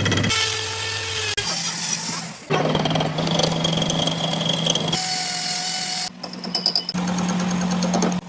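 Workshop machinery and tool noise in short clips that change abruptly every second or so, with a steady low hum under each.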